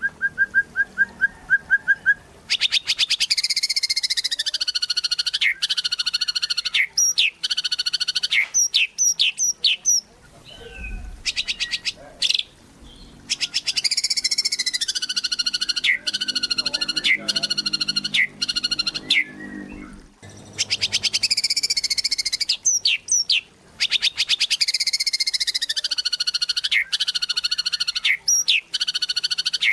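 White-rumped shama (murai batu) singing loudly in full song, with a rapid harsh rattle, buzzy falling notes and short sharp whistles. The same long phrase comes back about every nine seconds, with brief pauses between.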